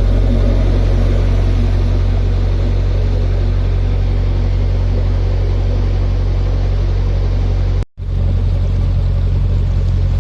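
Narrowboat's diesel engine running steadily while cruising, a constant low hum. About eight seconds in the sound drops out for an instant, then carries on unchanged.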